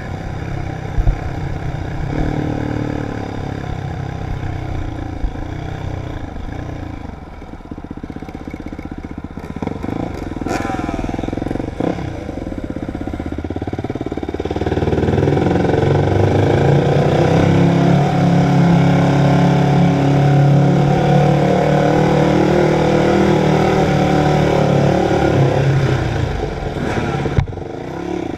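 Dirt bike engine being ridden off-road, revving up and down through the gears, with occasional sharp knocks and clatter. It eases off for a few seconds, then runs louder and steadier from about halfway.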